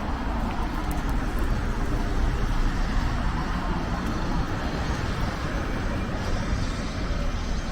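Road traffic on a town street: steady engine and tyre noise from passing vehicles, swelling slightly a couple of seconds in.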